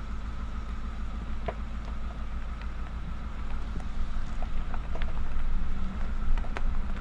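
A vehicle driving, with a steady low engine and road rumble and scattered light clicks and rattles; the rumble grows louder about halfway through.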